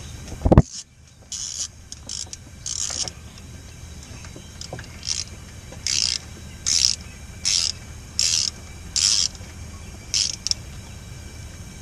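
Ratchet wrench clicking in short back-and-forth strokes, about one every 0.7 s, as the engine's oil drain plug is threaded in and snugged tight. A dull thump comes about half a second in.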